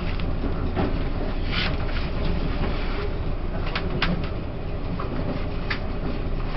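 Running noise inside a coach of a Taiwan Railways E1000 push-pull express train: a steady low rumble of wheels on track, with several brief high squeaks about a second apart near the middle.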